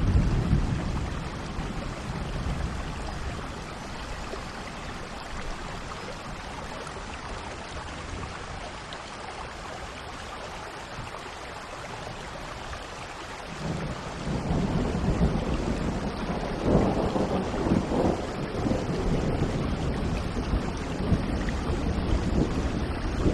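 Steady rain with rolling thunder. A rumble at the start dies away, then a longer, louder rumble builds about two-thirds of the way through and carries on to the end.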